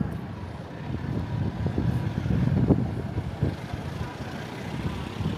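Busy city street ambience: a low, uneven rumble like passing traffic, with indistinct voices and scattered short knocks.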